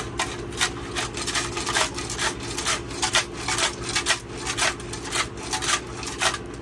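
Rocks rattling and scraping inside a metal gas tank as it is shaken back and forth, about two to three strokes a second, to scour the inside clean. A steady low hum runs underneath, and the rattling stops near the end.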